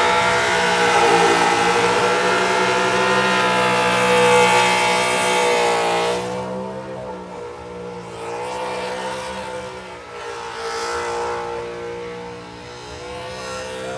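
A car engine held at high revs during a burnout, over a loud wash of tire noise. About six seconds in it eases off, and then the revs rise and fall.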